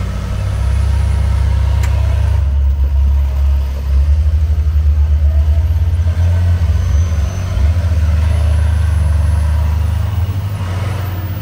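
Jeep engine idling with a steady low rumble.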